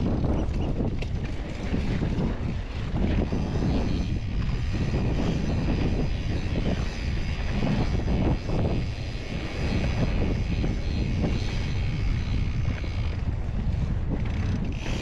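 Mountain bike ride: wind rushing over the microphone and tyres rumbling over a rocky dirt trail, a steady noise with uneven low buffeting and small knocks.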